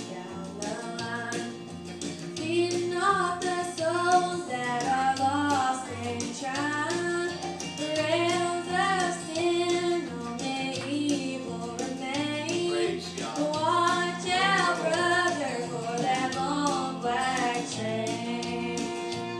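A young woman singing a country gospel song over a recorded backing track with guitar and a steady bass line.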